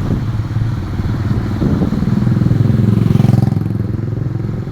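Vehicle engine running while travelling along a road. It speeds up from about two seconds in, then eases off about three and a half seconds in.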